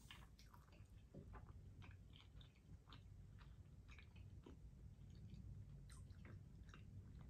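Faint close-miked chewing of soft macaroni and cheese: small wet mouth clicks scattered irregularly over a low room hum.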